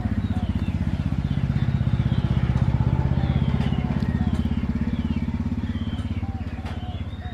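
A small engine running steadily with a rapid low pulse, swelling a little then slowly fading, with short repeated chirps over it.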